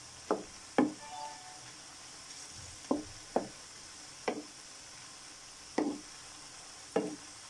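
Bitter gourd strips sizzling in hot oil in a frying pan, with a spatula knocking against the pan about seven times as the pieces are turned.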